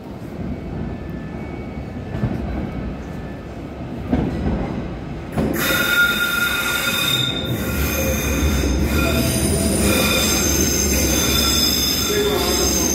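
Merseyrail Class 777 electric train arriving at an underground station platform: a rumble builds from the tunnel, then from about five seconds in it brightens into several steady, high-pitched squeals over a low hum as the train runs in alongside the platform.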